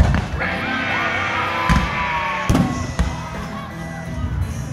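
Fireworks going off over music: a loud bang right at the start, then further booms about 1.7, 2.5 and 3 seconds in, with steady music playing throughout.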